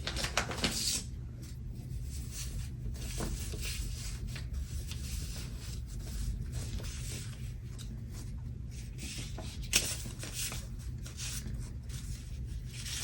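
Paper handling at a desk: a sticker sheet and planner pages rustling and being tapped, with one sharp click about ten seconds in. A steady low rumble runs underneath.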